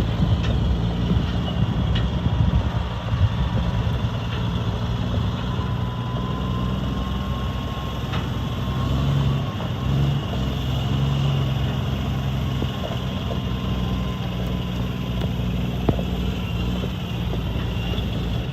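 Diesel engine of a 2007 Freightliner M2 single-axle dump truck idling steadily.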